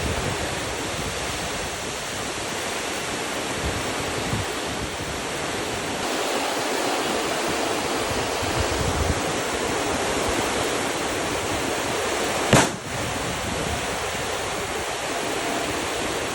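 Steady rain falling, an even hiss of water. One sharp click about three-quarters of the way through.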